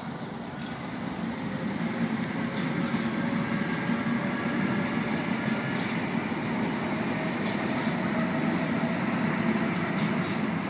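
Sydney Trains H-set (OSCAR) electric multiple unit running along the platform: steady wheel-on-rail rumble with a faint whine from the traction motors. It grows louder over the first couple of seconds, then holds.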